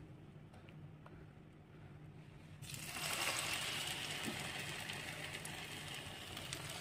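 Battered zucchini flowers frying in hot oil: a quiet stretch, then a steady sizzle sets in a little under three seconds in, with light crackles.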